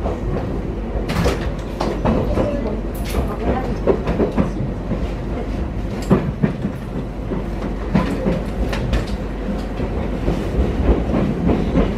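Electric commuter train running at speed, heard from inside the carriage: a steady rumble with irregular clacks of the wheels over the rail joints.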